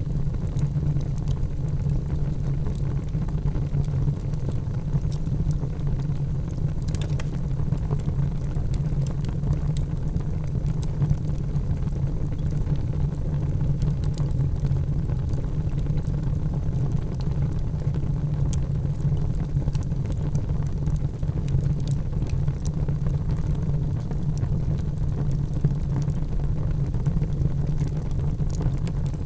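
Wood fire burning in a fireplace: a steady low rumble of the flames with scattered small crackles and pops, one sharper pop about seven seconds in.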